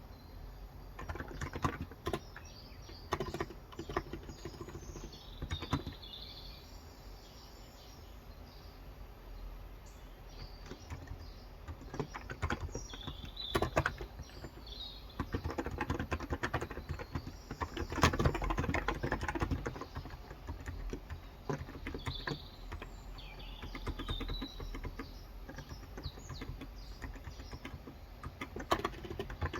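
Typing on a Cox Endeavor electro-capacitive (non-contact) tenkeyless keyboard with 35 g keys, in uneven runs of keystrokes that ease off for a few seconds about a third of the way in. Birds chirp briefly in the background several times.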